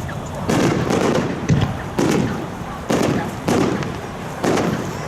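Aerial fireworks shells bursting overhead: about six sharp bangs at irregular intervals of half a second to a second, each trailing off in a low rumble.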